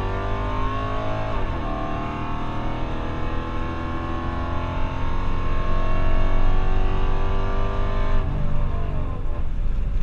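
Modified 5.7-litre Hemi V8 of a Dodge Charger R/T, with long-tube headers and a performance cam, pulling hard under full throttle. The revs climb, drop at a gear change about one and a half seconds in, then climb again in one long pull before easing off near the end.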